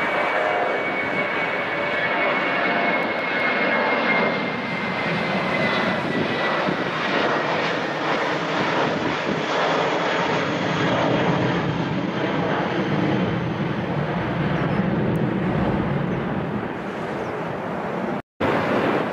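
Airplane engines running at high power during a takeoff: a loud, steady rush with a high whine that slowly falls in pitch. The sound cuts out for a moment near the end.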